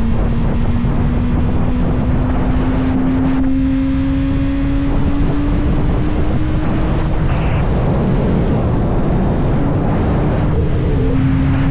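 2024 Kawasaki ZX-6R's 636 cc inline-four engine pulling steadily at speed, its note slowly rising for several seconds, then easing off and coming back in with a step down near the end. Heavy wind rush on the microphone runs under it.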